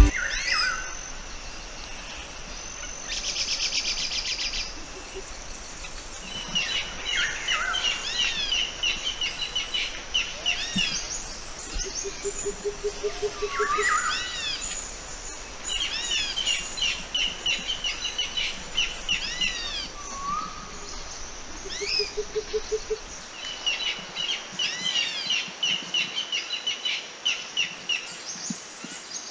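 Several wild birds singing and calling, with quick repeated chirps and whistled phrases throughout. A buzzy trill comes about three seconds in, and a lower short trill comes twice, near the middle and later on.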